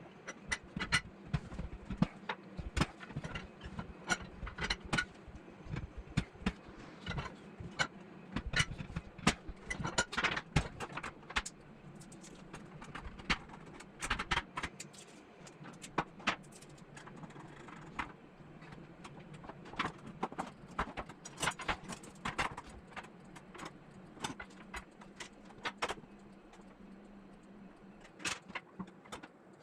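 Irregular light metallic clinks and taps of thin sheet-metal fire-stand parts being handled and worked, over a faint steady low hum.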